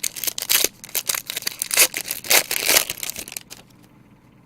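Plastic trading-card pack wrapper being torn open and crinkled by hand, a dense crackling that stops about three and a half seconds in.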